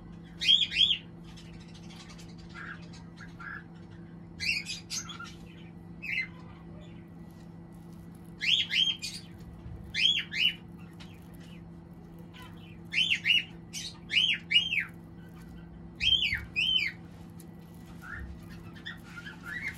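A bird calling repeatedly: short, arched chirps in pairs and threes, a group every one to three seconds, over a steady low hum.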